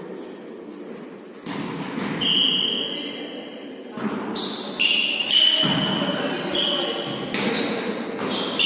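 Volleyball rally on an indoor court in a reverberant hall: a string of sharp hits and bounces about one a second, several followed by a short high ringing tone.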